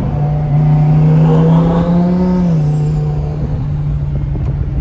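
Twin-turbo Lamborghini Huracan V10 running under light throttle, heard from inside the cabin, with a high turbo whistle rising in pitch about a second in. About halfway through, the engine note drops.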